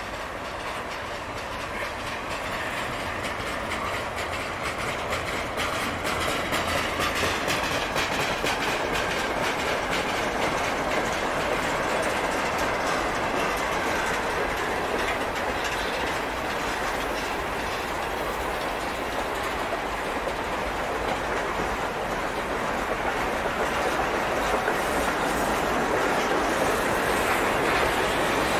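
Freight cars of a passing mixed freight train rolling by, steel wheels on rail making a steady rolling noise with many repeated clicks as the trucks cross rail joints. The noise grows a little louder over the first few seconds.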